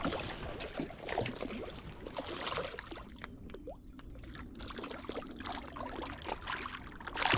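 Water trickling and lightly splashing against a small fishing boat, with scattered small clicks and knocks and a slightly louder knock near the end.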